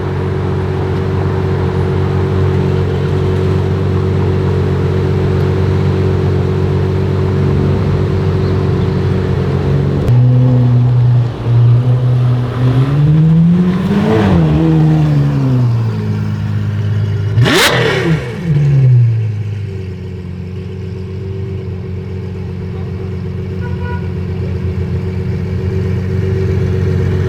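Ferrari 812's V12 engine idling steadily, then revved: the pitch rises and falls once about halfway through, and a second sharp blip climbs high and drops straight back before the engine settles to a quieter idle.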